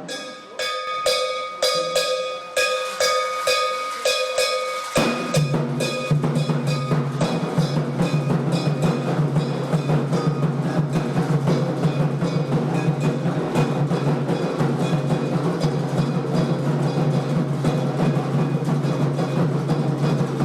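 Candomblé drumming on atabaque hand drums for the xirê. For about five seconds there are spaced, ringing strokes, about two a second, then the full fast, dense drumming comes in and keeps going.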